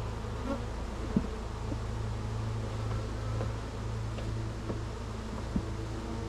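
Honeybees buzzing in numbers around an opened hive, a steady hum from the disturbed colony. Two sharp clicks cut through it, about a second in and near the end.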